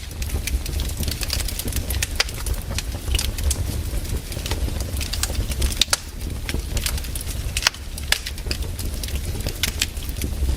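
Firewood burning, crackling with irregular sharp pops over a steady low rumble.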